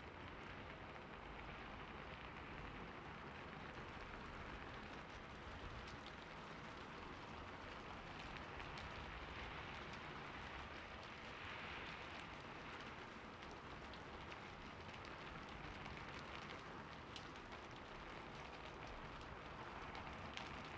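Steady rain falling on a roof, an even hiss with scattered small drop ticks.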